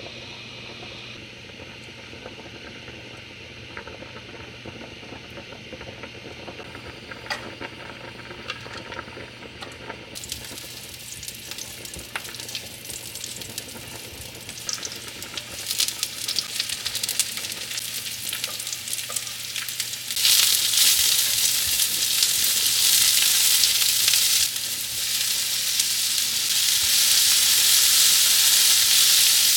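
Food sizzling as it fries in a hot pan. The sizzle builds gradually, jumps much louder about two-thirds of the way in, eases for a moment, then rises again near the end.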